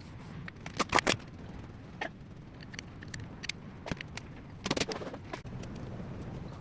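Metal tools and engine parts clinking and knocking during work on an engine's timing, in scattered sharp strikes: the loudest a pair about a second in and a cluster near five seconds, over a low steady rumble.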